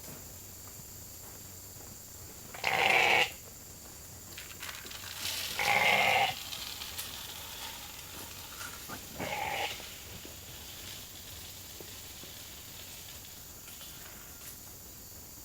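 Sheep bleating three times, loud calls each about half a second long, from a hungry flock waiting to be fed grain.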